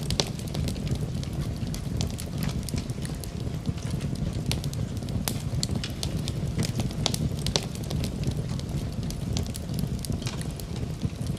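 Fire burning in a fireplace: a steady low rumble of flames with frequent sharp crackles and pops, several a second.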